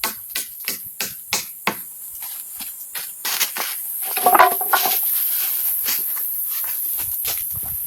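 Quick, regular knocks of a hand tool striking wood, about three a second, then a steady high hiss with a brief pitched creak about halfway through.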